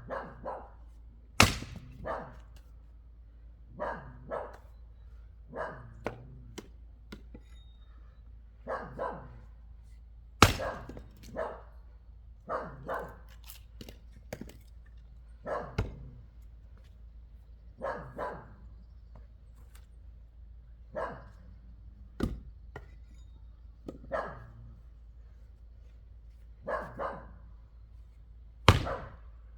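Wood being chopped: five sharp, loud chops spaced several seconds apart. In between, a dog barks repeatedly, often two barks at a time.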